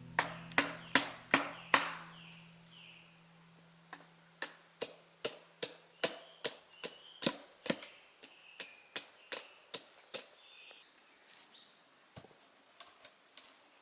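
A hand tool striking wood in quick repeated blows, about two to three a second: a short loud run at the start, then a longer run after a pause of about two seconds, fading to a few light taps near the end. Birds chirp faintly in the background.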